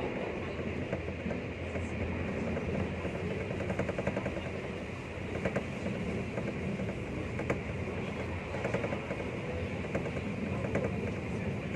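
Passenger train running at speed, heard from inside the carriage: a steady rumble of wheels on rail, with a few faint clicks now and then.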